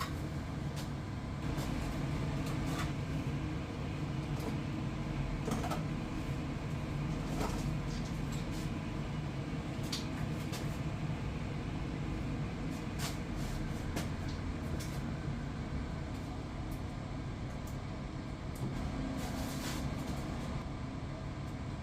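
Steady low hum of a Potterton Commercial gas boiler running after its ignition electrodes were re-gapped, with scattered light clicks and knocks.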